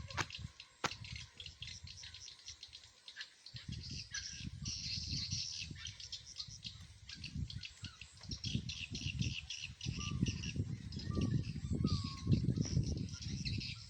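Many small birds chirping and twittering in a dense, continuous high chatter, likely swiftlets coming in to roost at a bird house. An irregular low rumble runs underneath and grows louder from about four seconds in.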